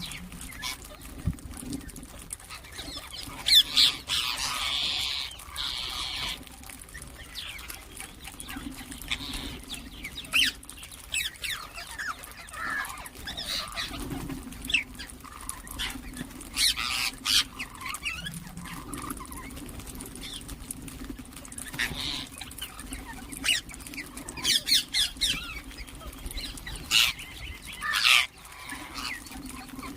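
Indian ringneck parakeets calling: short, high-pitched squawks and chirps come at irregular intervals, with the loudest calls about three and a half seconds in and near the end. A steady low hum runs underneath.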